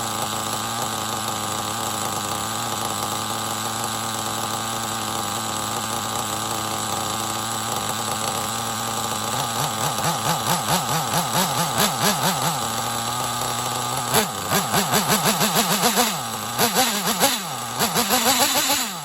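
Intech BR-6 Alpha .28 two-stroke nitro engine idling steadily, then, from about halfway, blipped on the throttle again and again, its pitch swinging up and down several times a second and louder in the last few seconds.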